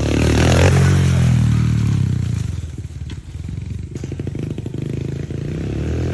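Pit bike engine revving, then dropping back to a low, slow idle about two and a half seconds in, and picking up again near the end.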